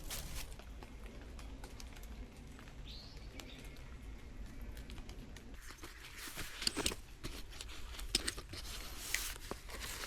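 Light rustling and scattered clicks of camping gear being handled, busier from about halfway.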